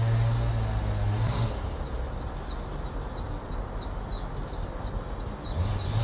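A small bird chirping a rapid series of short, high notes over a steady background hiss. A low motor-vehicle engine hum is heard for the first second and a half and comes back near the end.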